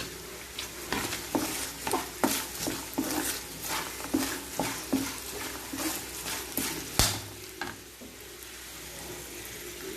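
A spoon stirring and scraping through fried nuts and spices in oil in a kadai on the stove, with repeated clinks against the pan over a steady sizzle. A loud knock comes about seven seconds in, after which only the sizzle goes on.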